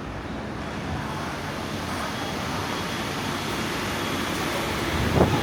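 Steady rushing background noise, with a brief louder thud about five seconds in.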